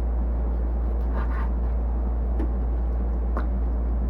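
A steady low hum with a few short knife taps on a cutting board as raw chicken thigh is cut into small pieces.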